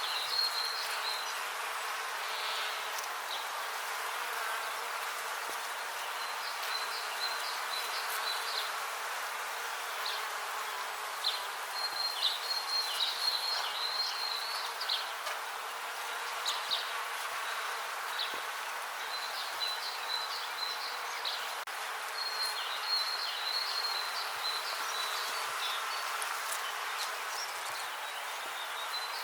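Bees buzzing in a steady drone, with a high chirping in short runs of a few seconds coming and going over it.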